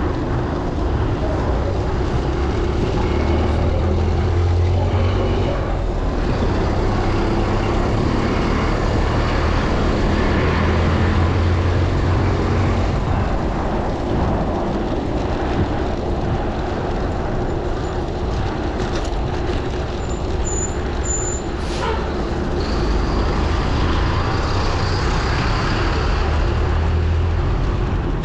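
Steady road noise of motor traffic passing close by, with low rumbles swelling and fading several times as vehicles go past, heard through heavy wind noise on the microphone.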